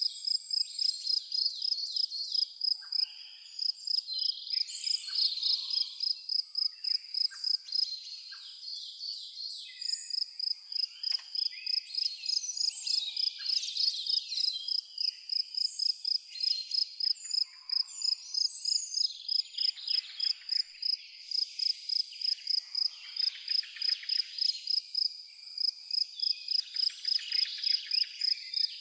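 A cricket chirping in a steady high-pitched rhythm, about three chirps a second, with brief pauses, while several birds call and twitter around it.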